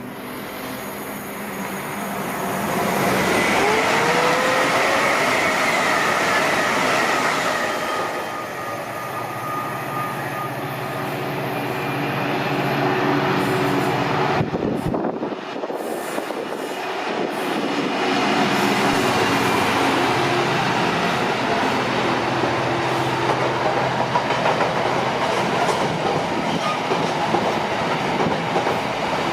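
Class 66 diesel freight locomotive passing with a long freight train: the engine's sound swells up to a peak in the first few seconds, then a long run of wagons rolls by with a steady rumble and clatter of wheels on the rails.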